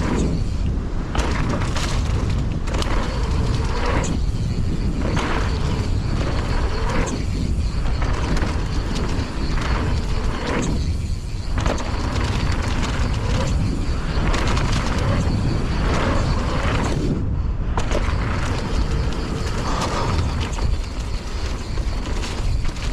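Strong wind buffeting an action camera's microphone in a steady low rumble, with the clatter and rattle of a mountain bike rolling over rough trail.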